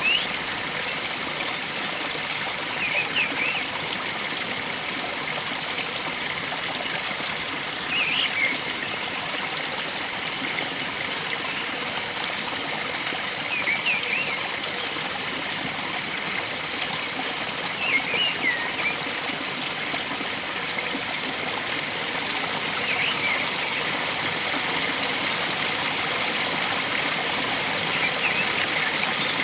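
Flowing stream water with a steady rush, and a bird giving short chirping calls every four to five seconds over it.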